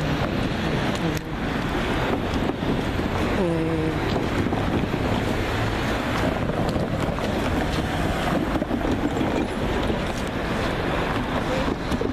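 Freight train passing close by: a steady rumble and rattle of its wheels on the rails, with wind buffeting the microphone.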